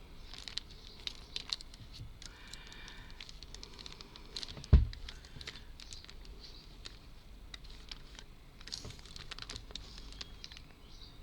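Light clicks and taps of small wooden model pieces and tools being handled on a work surface, with one louder thump a little under five seconds in.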